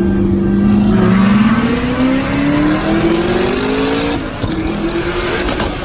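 Twin-turbo V8 of a C6 Corvette Z06 under load on a chassis dyno. It holds a steady note, then revs up smoothly for about three seconds. As it comes off the throttle there is a rush of air hiss, and the engine drops back to a lower steady note.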